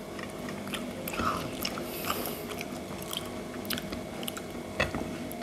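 A person biting and chewing fried banana, with small wet mouth clicks and light crunches scattered throughout and one sharper click near the end.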